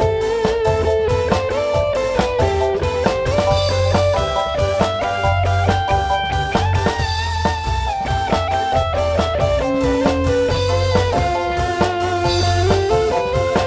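Instrumental break of a live dangdut band: a lead melody over a steady drum rhythm and a heavy, pulsing bass, with no singing.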